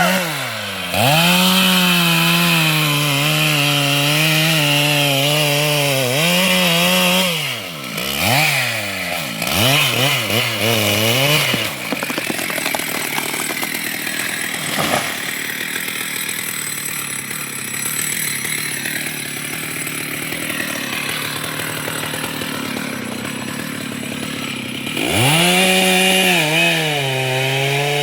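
Two-stroke chainsaw running at high revs and cutting wood. About eight seconds in, it revs up and down several times. It then runs quieter for a long stretch before going back to full throttle near the end.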